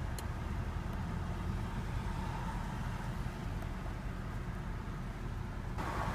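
The twin-turbo V8 of a 2014 Mercedes-Benz CLS 550 idling with a steady low hum, heard from inside the cabin. There is a faint click just after the start, and a rush of wider noise comes in near the end.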